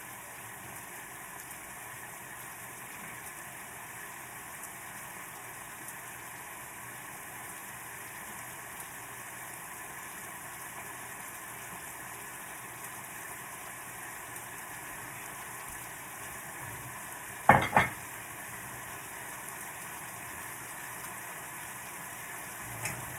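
Chicken and pineapple frying in a pan: a steady sizzle. About seventeen seconds in, two sharp knocks close together are the loudest sound, with a fainter one near the end.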